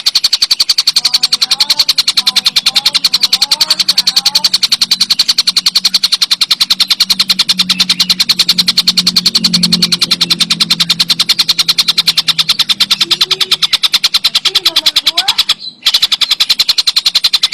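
Tengkek buto giving a continuous, very fast rattling chatter of about ten even pulses a second. The chatter breaks off briefly near the end.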